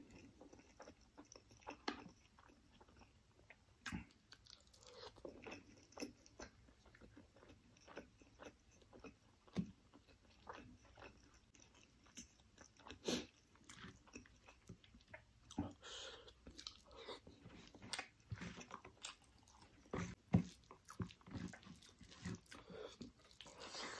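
Close-miked wet chewing and lip smacks of someone eating rice and chicken curry, a steady run of short clicks and smacks. There are squelches of fingers mixing rice into the curry gravy.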